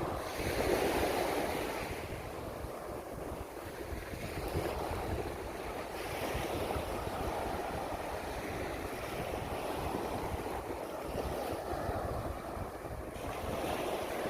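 Sea waves washing onto a beach, swelling and falling back every few seconds, with wind rumbling on the microphone.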